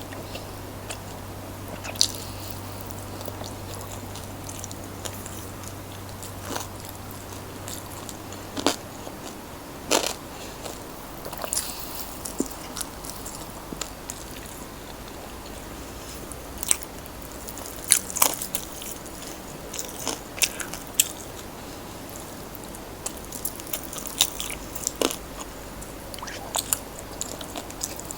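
Close-up eating sounds of crispy fried chicken being bitten and chewed: irregular sharp crunches with quieter chewing in between.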